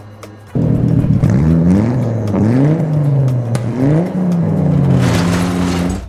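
Engine sound effect starting abruptly about half a second in and revving up and down about three times before holding a steady note. It plays over background music, with a brief rushing hiss near the end.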